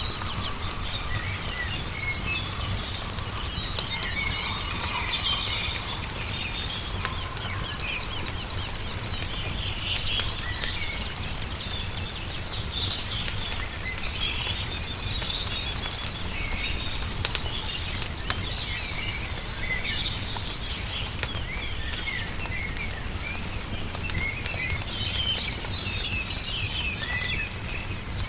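Small birds chirping and singing in short phrases over the scattered pops and crackles of a wood fire, with a steady low rumble underneath.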